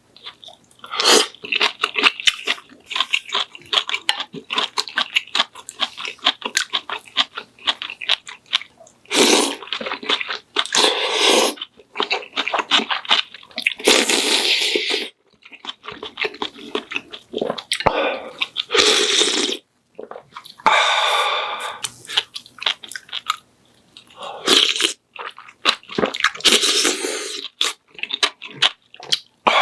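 Close-miked eating: a person chewing and crunching food in quick, clicky bites, with several louder stretches lasting a second or two.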